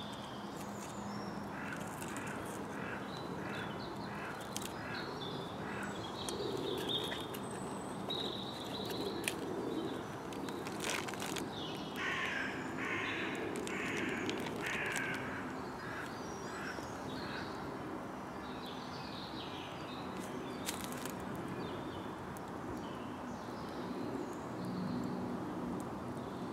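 Woodland birds calling, with a run of about four harsh, crow-like calls about twelve seconds in. Occasional sharp clicks over a steady outdoor background.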